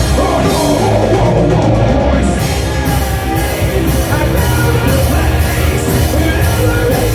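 Live rock band playing loud, distorted guitars and bass over a driving drum kit, with cymbal hits about twice a second.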